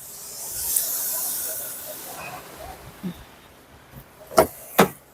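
Automatic car wash equipment hissing as the wash activates: a high hiss that swells and fades over about two seconds. Two sharp knocks follow near the end.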